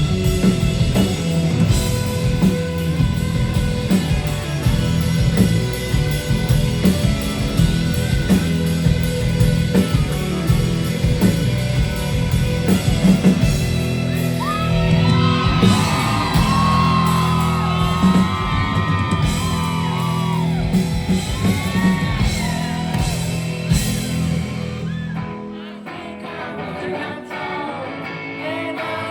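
Indie rock band playing live with drums, bass, guitar and singing, with high sliding melodic lines over the band in the middle. About 25 seconds in the bass and drums drop out and the music thins to a quieter passage.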